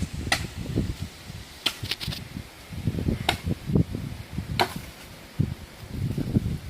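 Axe blows on firewood: a handful of sharp, irregular knocks about a second or more apart, over a low uneven rumble.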